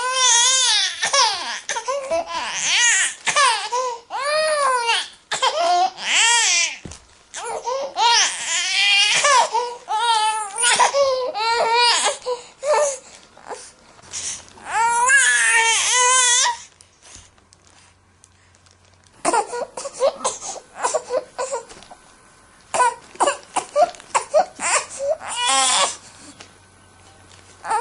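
Baby crying: long high wails that waver up and down in pitch for the first sixteen seconds or so, then after a short pause, shorter choppy, sobbing cries.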